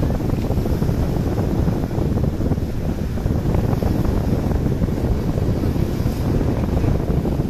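Steady wind rumble on the microphone aboard a moving boat.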